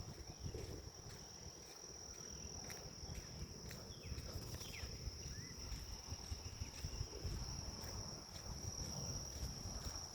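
Grass insects trilling steadily on one high pitch, with a few brief bird chirps about four to five seconds in and a low wind rumble underneath.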